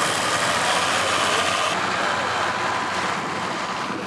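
A vintage farm engine running steadily during a ploughing demonstration, a constant mechanical noise with a faint steady tone through it.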